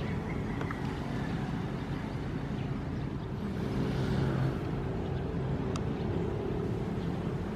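Ocean waves: a steady low rumble of surf that swells about four seconds in, with a few faint ticks.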